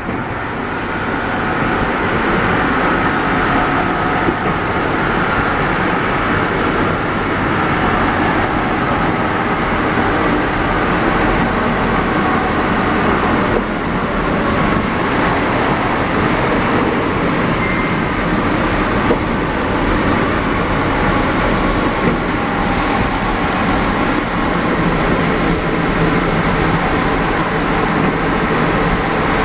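Santiago Metro NS-74 rubber-tyred train running between stations, heard from inside the car: a steady rolling rumble with a faint whine over it.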